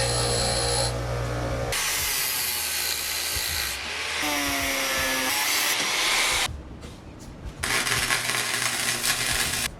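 Metalworking in quick cuts: a power tool runs with a steady hum, then loud rasping abrasive grinding or filing on metal. A brief falling whine comes near the middle, and the rasping returns after a short lull.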